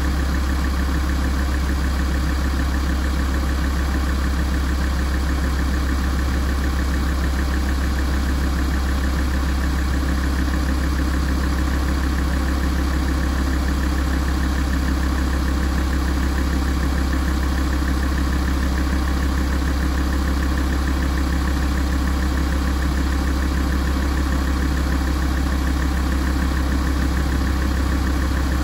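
Alfa Romeo 166 facelift's 2.4 JTDm five-cylinder common-rail diesel idling steadily with a low hum, as the engine is warmed up.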